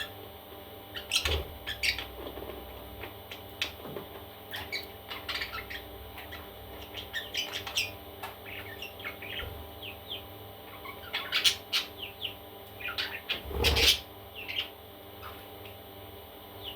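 Parrot chicks making short, scattered chirps and squawks, with a louder burst near the end.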